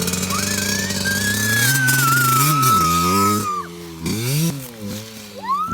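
Dirt bike engine revving up and easing off in several surges as the bike accelerates, with a long high-pitched tone over it for about three seconds early on.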